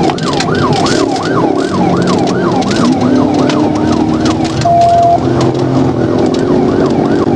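Police car siren on a fast yelp, wailing up and down about two and a half times a second, with the patrol car's engine note climbing beneath it. A short steady beep sounds a little past halfway.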